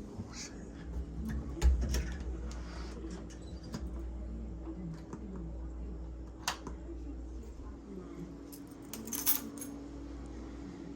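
Scattered small clicks and knocks over a steady low hum, with a quick cluster of clicks near the end.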